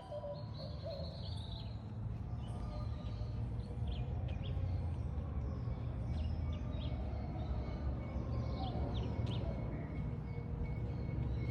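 Small birds chirping with short, high, scattered calls over a steady low rumble of outdoor background noise.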